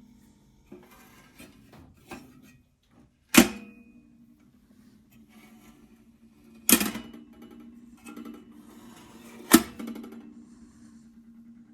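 Folding legs of a Winnerwell Nomad steel tent stove being folded and locked: light metallic clicks, then three sharp clanks about three seconds apart, each leaving the stove's metal body ringing briefly.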